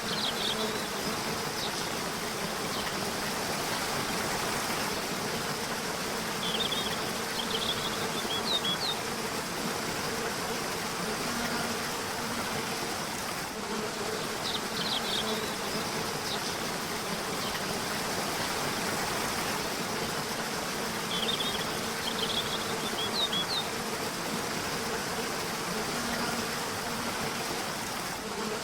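River water rushing steadily, with a bird singing short, high chirping phrases about every seven seconds.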